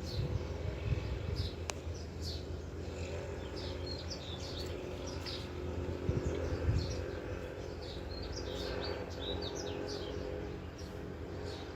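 Small birds chirping, many short high chirps in quick irregular runs, over a steady low rumble of background noise, with one sharp click near the start.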